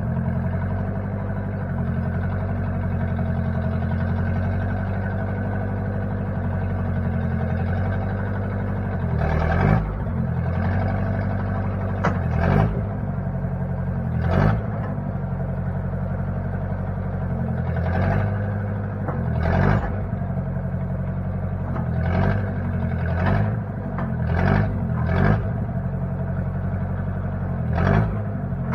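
Replacement engine of a 1960 Case 540 tractor-loader-backhoe running steadily, with about a dozen brief clunks through the second part, each with a short change in the engine note.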